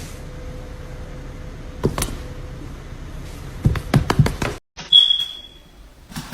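A sharp click about two seconds in, then a quick run of knocks and bumps, over a steady background hiss. After a cut, a short high thin tone fades away.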